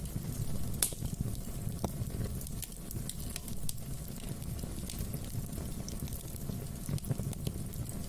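Fireplace fire crackling: a steady low rumble of flames with scattered sharp pops and snaps. The loudest pop comes just under a second in.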